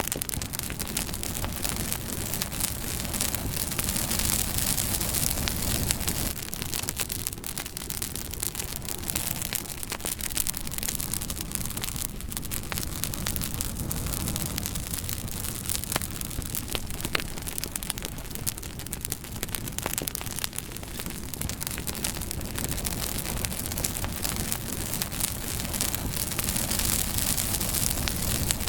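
Campfire crackling: a dense run of small pops and snaps over a steady hiss and low rumble of burning wood.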